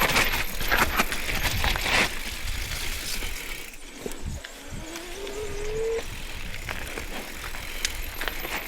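A mountain bike rattling and knocking over rough, rocky ground, with a cluster of knocks in the first couple of seconds. About five seconds in, a short rising squeal cuts off suddenly.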